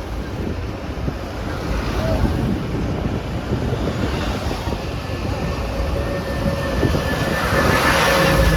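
Open tourist road-train riding along, its engine and road noise rumbling steadily with wind on the microphone. A faint steady hum comes in during the second half, and the noise swells briefly near the end.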